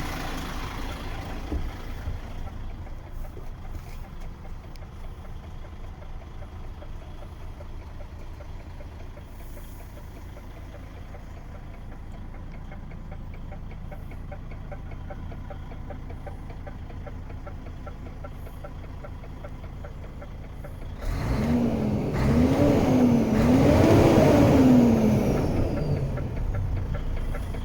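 DAF XF 95.480 truck's straight-six diesel idling steadily, then revved about three times near the end, the pitch climbing and falling with each rev.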